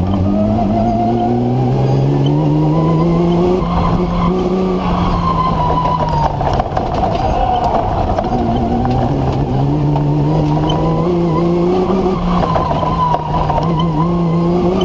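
BMW M3 engine of a TMC off-road racer, heard from inside the cab, pulling hard with revs climbing over the first few seconds, easing off around six seconds in, then climbing again, over constant gravel and tyre noise.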